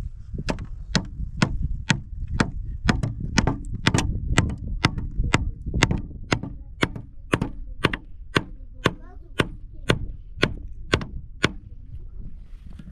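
Something hard being struck over and over with a tool, about two sharp knocks a second, stopping shortly before the end, over a steady low rumble.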